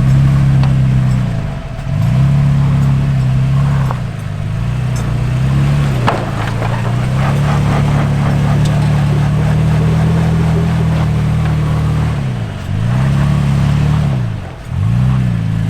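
Off-road truck engine running at crawling revs, its pitch dipping and climbing back several times as it works over rock, with a stretch of crunching and clicking from tires on rock in the middle.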